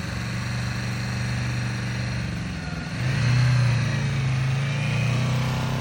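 Motorcycle engine running at low speed with a steady note, picking up in pitch and loudness about three seconds in as throttle is added.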